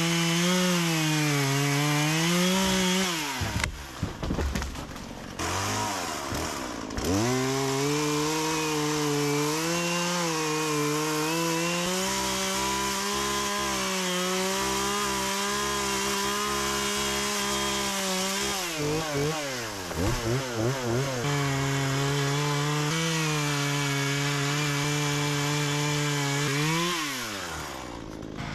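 Two-stroke Husqvarna chainsaw running at high revs and cutting into a tree. Its engine note bogs down and picks up again a few seconds in and once more about two-thirds through, then drops off near the end.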